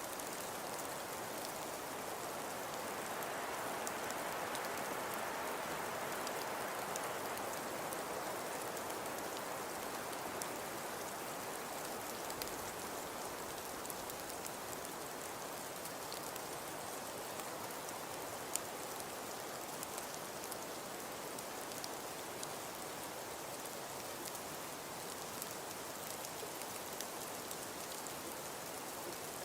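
Falling snow: a steady soft hiss peppered with fine, scattered ticks.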